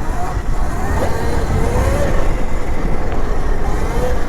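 Electric mini dirt bike being ridden: heavy wind and ground rumble on the microphone, with a thin motor whine that rises and falls as the speed changes.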